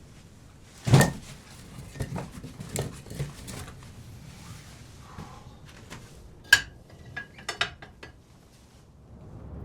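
Objects being handled, a run of knocks and clicks: a heavy knock about a second in, then a ringing clink halfway through and a few lighter clicks after it.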